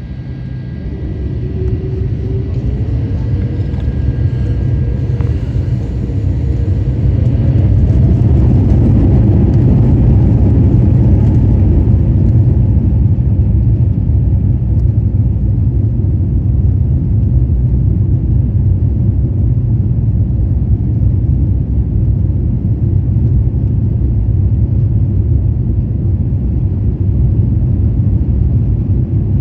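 Airbus A350-900's Rolls-Royce Trent XWB engines spooling up to takeoff thrust, heard inside the cabin: a whine rises in pitch over the first eight seconds as the noise grows louder, then settles into a loud, steady rumble of the takeoff run.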